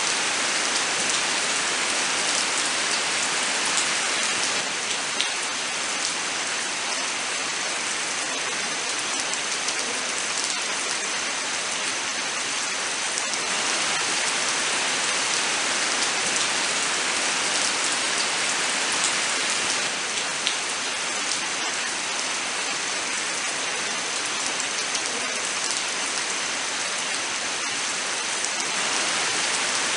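Steady rain falling: a continuous, even hiss with scattered sharper taps of individual drops.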